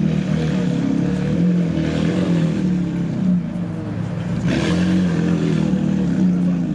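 A car engine running at a steady low speed, with a brief rush of noise about four and a half seconds in.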